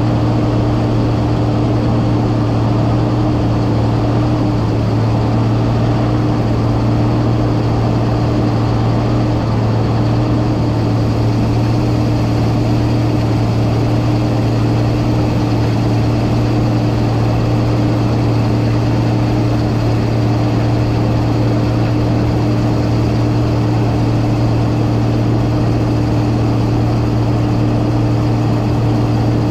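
Massey Ferguson 9690 combine running steadily, a constant low engine hum with an even mechanical drone.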